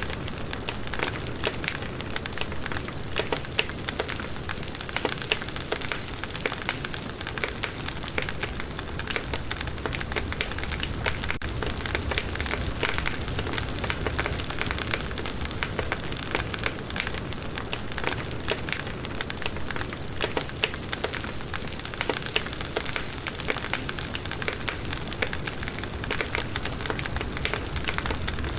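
Firewood burning in a campfire: a steady low rumble of flame with dense, irregular crackles and pops from the burning wood.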